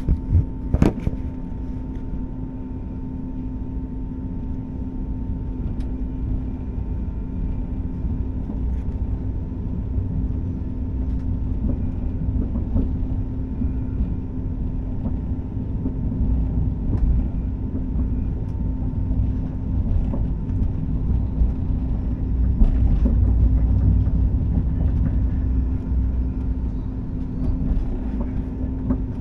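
Electric passenger train running at speed, heard from inside the carriage: a steady low rumble of wheels on rails with a steady hum over it. Occasional short clicks, the sharpest about a second in, and the rumble swells a little near the end.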